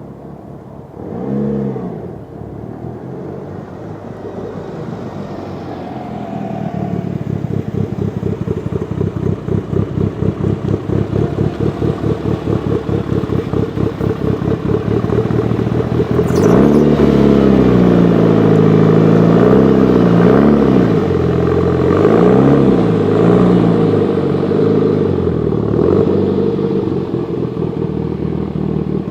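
Mitsubishi Lancer Evolution VIII engine with Kelford 272 cams, heard through a 3-inch RSR ExMag cat-back exhaust, idling with a pulsing beat. There is a short throttle blip about a second and a half in. From about halfway it is revved several times, rising and falling, then settles back to idle.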